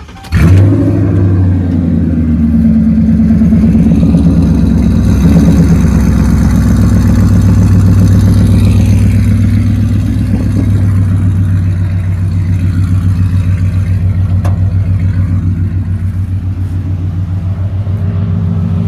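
2006 Ford Crown Victoria Police Interceptor's 4.6-litre V8 starting just after the beginning and then idling with an even, pulsing exhaust note through long-tube headers, an X-pipe and Flowmaster Outlaw racing mufflers. The idle settles a little quieter after about twelve seconds.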